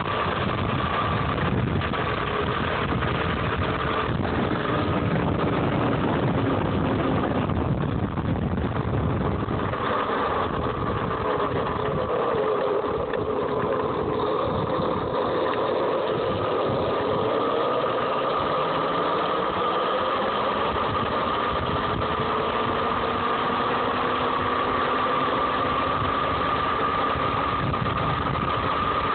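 Homemade electric dirt bike's DC motor and drivetrain whining while riding, the pitch dipping and rising again as the speed changes, over wind and tyre rumble. The rumble drops away for a while midway.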